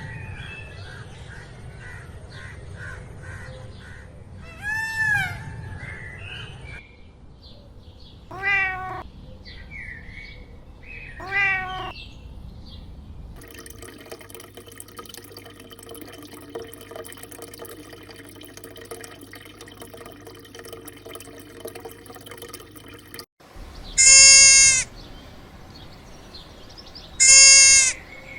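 A run of farm animal calls from several different animals, a few seconds apart. It opens with a goose honking once, then two shorter calls, a stretch with no calls, and two loud, drawn-out calls near the end.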